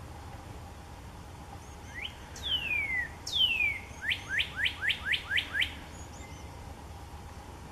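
A songbird sings one phrase: two long, clear whistles that fall in pitch, then a quick run of about seven short rising notes. A steady low background hum lies under it.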